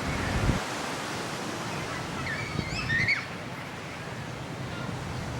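Ocean surf washing on a beach, a steady rushing hiss, with a few low thumps of wind on the microphone. Brief high-pitched calls sound about halfway through.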